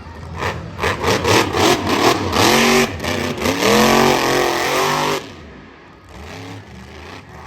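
Monster truck engine revving hard in repeated rising and falling sweeps, then dropping off sharply about five seconds in to a lower running sound.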